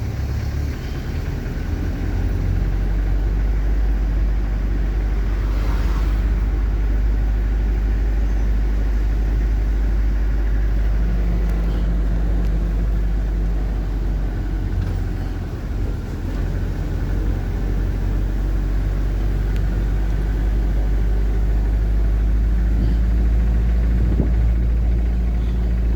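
Truck engine running steadily as the truck pulls slowly in second gear, a continuous low rumble that dips briefly about two-thirds of the way through.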